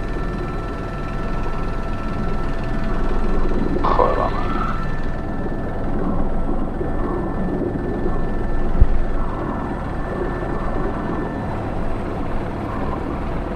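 Airbus H125 (AS350 B3) helicopter in flight, heard from inside the cockpit: steady turbine whine and rotor noise with constant tones. A brief wavering pitched sound comes about four seconds in, and a single sharp knock near nine seconds.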